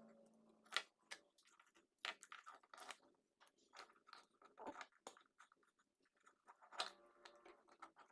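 Faint, irregular clicks and crunching noises from small objects being handled, spaced unevenly throughout, with a faint steady hum near the start and again near the end.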